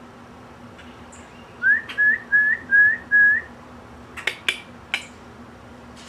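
A songbird whistling a quick series of five short, rising notes, followed about a second later by a few sharp chips. A faint steady hum runs underneath.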